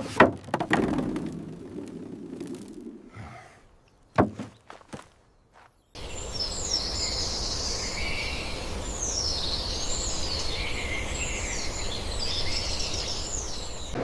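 A few sharp knocks in the first seconds. About six seconds in, an outdoor ambience starts abruptly: small birds chirping and twittering over a steady low background noise.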